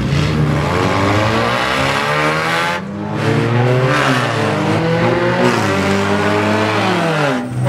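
Several cars towing caravans racing around a track, their engines revving up and down with several engine notes overlapping.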